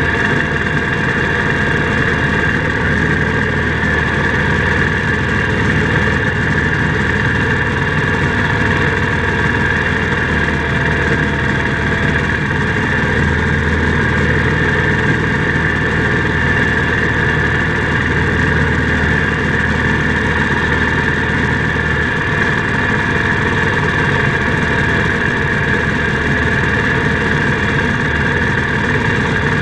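IH Cub Cadet 147 garden tractor's single-cylinder Kohler engine running at a steady speed, with a steady high whine over the engine sound.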